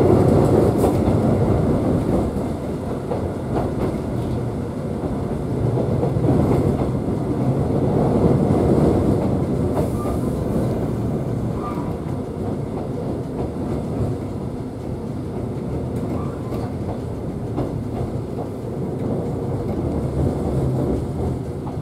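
Konan Line electric train heard from inside the passenger car while running: a steady rumble of wheels on the rails with light clicks from the track. It is a little louder for the first couple of seconds, then runs evenly.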